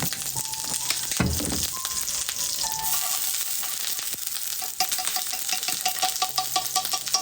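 Wood fire blazing, a steady hiss with a dense crackle of sharp pops from the burning firewood.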